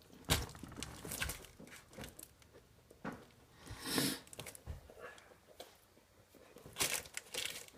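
A person chewing a mouthful of hot dog: scattered wet chewing and smacking sounds with small clicks, and a few louder noisy bursts about four and seven seconds in.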